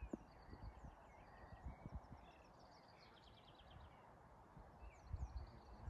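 Near silence outdoors, with small birds chirping faintly: quick high chirps throughout and a short trill about three seconds in. A few soft low thumps come near the start and again about five seconds in.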